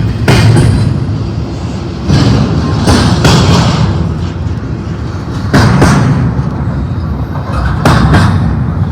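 Freight train passing close by: a loud, steady low rumble broken by a series of sudden thuds at irregular intervals.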